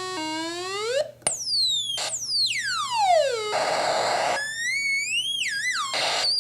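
Homemade electronic sound-effects synthesizer, built from Angelis Electronics 8630 and 4820 kits and a Velleman kit, playing through its homemade speaker. It makes a slow rising tone, quick downward swoops and a long falling sweep, a burst of hiss lasting about a second midway, then a wavering, warbling tone and another short hiss near the end.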